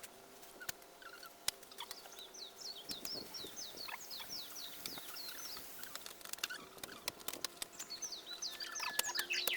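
A songbird singing two quick runs of high, down-slurred notes, one near the start and one near the end, with scattered sharp clicks and taps.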